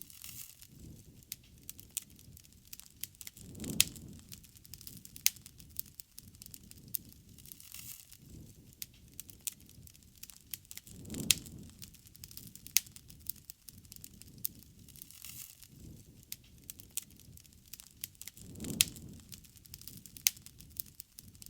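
Wood bonfire crackling, with frequent sharp pops and snaps, some loud, scattered over a soft low rumble of the flames that swells three times, about every seven seconds.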